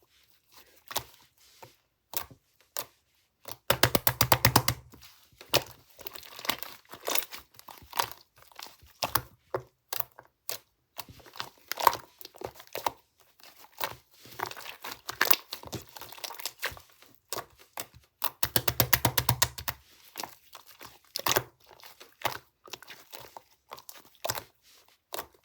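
Thin wrapping material being handled, crinkling and tearing in many short irregular rustles. Two spells of dense, rapid crackling come about four seconds in and again near the end.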